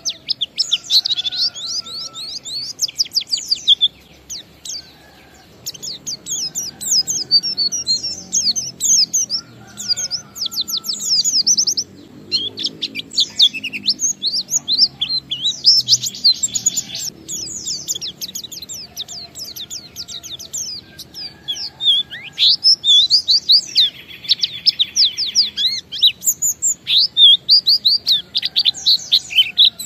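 White-eye (pleci) singing a long, fast, continuous twittering song of rapid high chirps and sweeping trills, in the style that keepers call 'ngalas'. It breaks off briefly about four seconds in.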